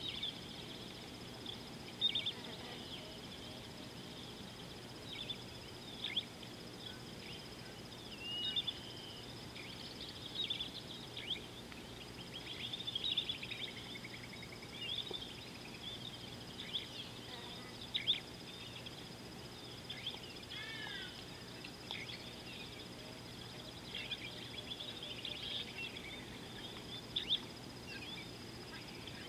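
Wild birds chirping and calling on and off, with short trills and a few quick falling notes, over a faint steady high tone.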